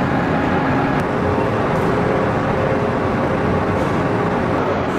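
Steady engine noise from a running vehicle, even in level throughout.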